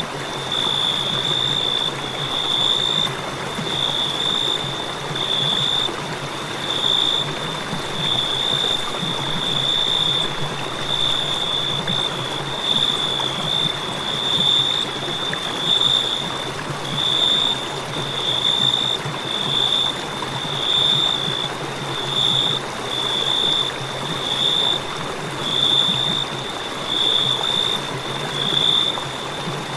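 Crickets trilling: a high, steady trill that swells and fades about once a second, over a steady hiss.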